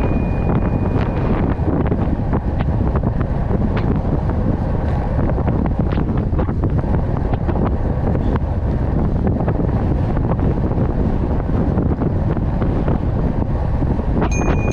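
Loud, steady wind buffeting the microphone, with a few faint ticks scattered through it.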